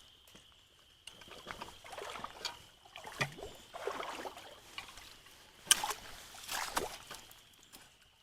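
Irregular splashing and sloshing of creek water as piled-up debris is pulled out of it, with two sharper splashes a little past the middle.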